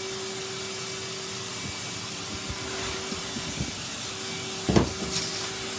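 Henry cylinder vacuum cleaner running steadily with a constant hum, with small rattles in the middle and a sharp thump about a second before the end.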